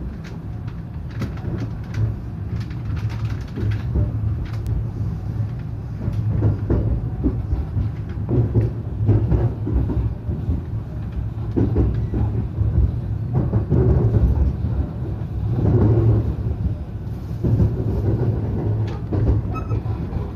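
Local electric train pulling away from a station and picking up speed, heard from inside the carriage: a low running hum that grows louder, with the wheels knocking over rail joints.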